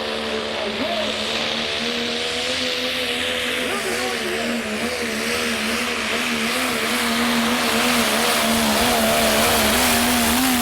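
Diesel 4x4 pickup truck's engine at full throttle pulling a sled, a steady pitched note that wavers slightly and grows louder over the last few seconds.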